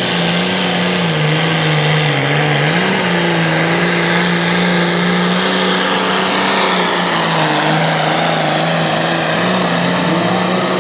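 Turbocharged diesel pulling tractor engine running flat out under load as it drags the weight sled down the track. Its pitch sags and recovers a few times early in the run, then holds steady, and the sound cuts off abruptly at the end.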